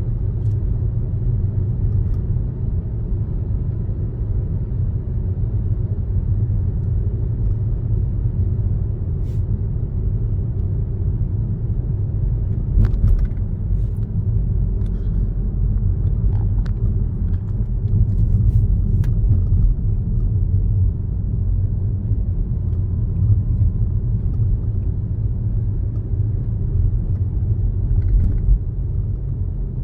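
Steady low rumble of a car driving along a road, with a few faint clicks and ticks about halfway through.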